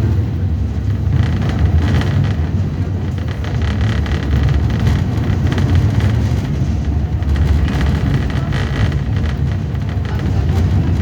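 Tram running on its rails, heard from inside the car: a steady low rumble from the wheels and running gear, with higher-pitched wheel squeal on a curve coming and going several times.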